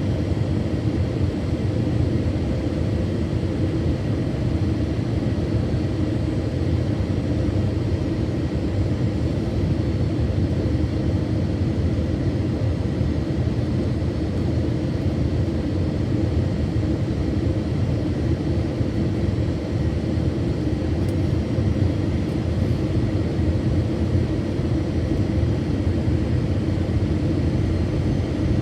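Steady low cabin rumble of an Airbus A321-200 in motion, even in level throughout, with a few faint steady whining tones above it.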